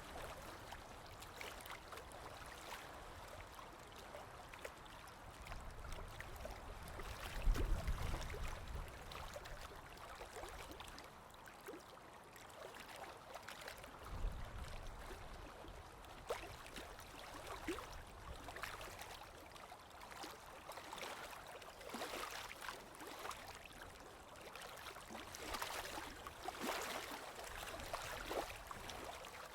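Stream water running and gurgling steadily, with small trickling splashes throughout. A brief low rumble comes about a quarter of the way in, the loudest moment, and a weaker one around the middle.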